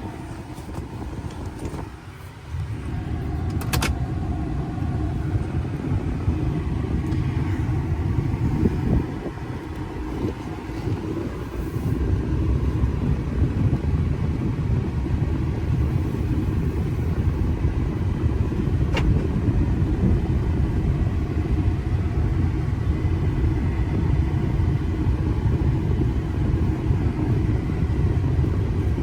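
A 2016 Ford F350's 6.7 Power Stroke turbo-diesel V8 and road noise on a test drive, a steady low drone that dips briefly about two seconds in and eases for a few seconds around the middle. Two single sharp clicks, one about four seconds in and one near the end of the first two-thirds.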